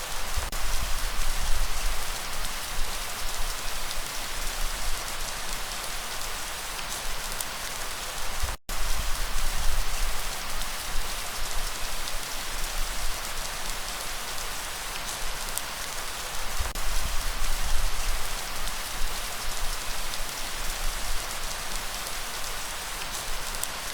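Steady rain falling: a dense hiss with scattered drop ticks and a low rumble underneath. The sound cuts out completely for an instant about a third of the way in.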